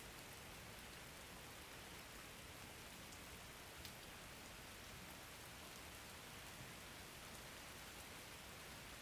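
Faint, steady rain falling, an even hiss with scattered drop ticks; one sharper drip a little under four seconds in.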